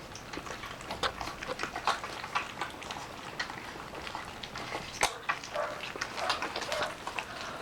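A litter of standard poodle puppies eating mush from a shared bowl: many quick, irregular wet lapping and smacking clicks, with little squeaks among them.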